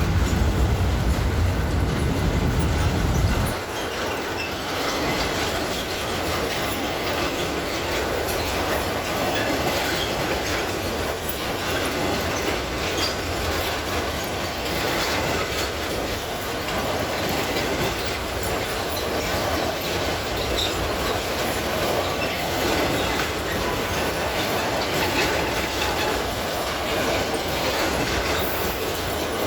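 Freight train's wagons rolling past with a steady clatter of wheels over the rails and some wheel squeal. A deep rumble at the start cuts off about three and a half seconds in.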